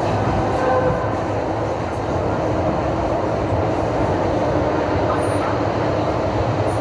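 Train carriage running along the rails with a steady, continuous rumble of wheels and track.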